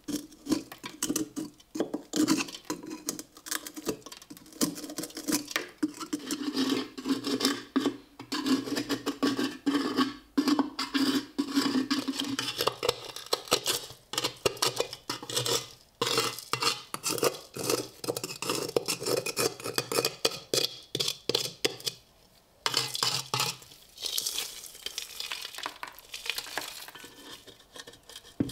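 Metal scraping and clinking in quick, irregular strokes against a rusty steel helmet shell, with a short pause about three quarters of the way through.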